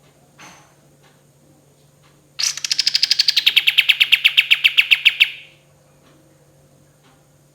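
Kapas tembak songbird delivering one rapid trill, its 'tembakan', about three seconds long: fast repeated notes, about ten a second, that start high and slide down in pitch before stopping abruptly.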